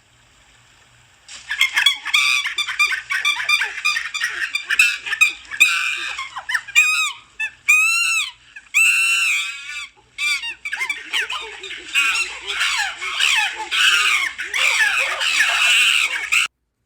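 Many birds calling and squawking together in dense, overlapping high calls that start about a second in, with a few sharp rising-and-falling squawks near the middle; the calling cuts off suddenly just before the end.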